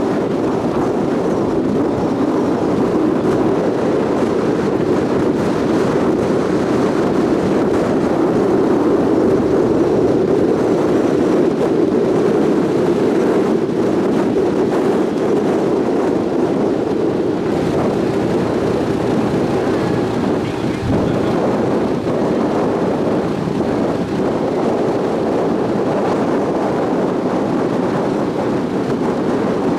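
Steady, even drone of a large sightseeing ship underway: its engines and the water rushing along the hull.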